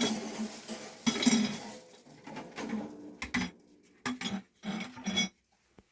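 Dishes and metal pots clinking and knocking together as they are handled, in a string of irregular clatters with short ringing.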